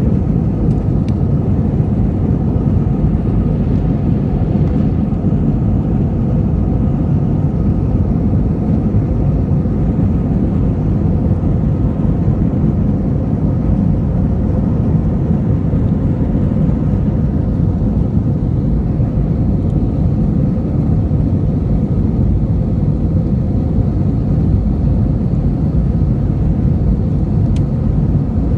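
Airliner in flight, heard from inside the cabin: a steady, unchanging low rumble of jet engines and airflow with a faint whine held above it.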